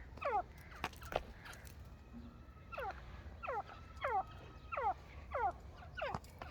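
Partridge (teetar) giving a run of short, falling calls, about three every two seconds, with a few sharp clicks near the start.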